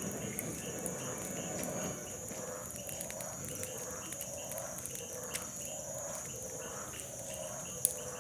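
Outdoor night-time rural ambience: insects keep up a steady high trill while an animal call repeats about twice a second. A small bonfire gives scattered faint crackles, with one sharp pop near the end.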